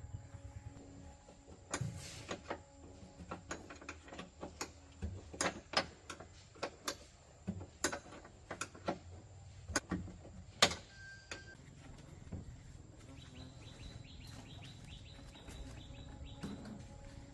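Irregular sharp clicks and knocks, a dozen or more, the loudest about two-thirds of the way through, followed by a quick run of fine rapid ticks.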